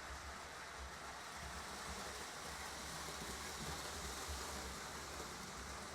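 Lionel toy trains running on a tabletop layout: a steady, quiet rolling rumble of wheels on the metal track with motor hum.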